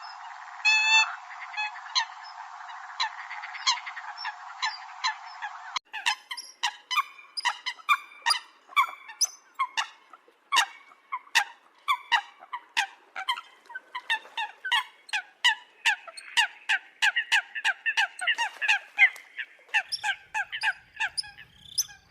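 Eurasian coots calling: short, sharp honking notes. About six seconds in the recording changes abruptly to a dense run of quick calls, several a second and overlapping, as from more than one bird. It is a lure-call recording of coots.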